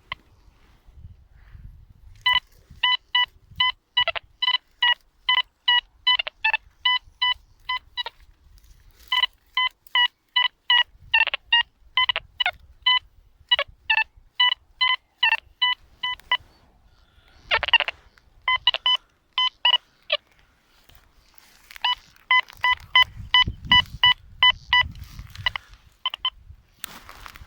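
Deteknix Quest Q40 metal detector giving rapid short beeps on one steady pitch, about three a second, in several runs with short pauses: the detector signalling metal under its Nel Tornado coil. A brief scraping noise cuts in about two-thirds of the way through.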